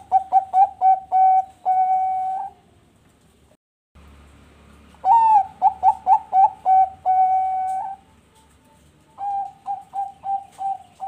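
Zebra dove (Bangkok perkutut) singing three cooing phrases. Each phrase is a quick run of short stuttering coos that ends in a long held coo. The third phrase, near the end, is fainter.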